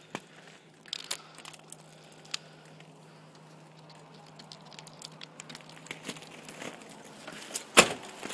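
Scattered light clicks and crunches of footsteps on icy ground, with one sharp, loud knock near the end.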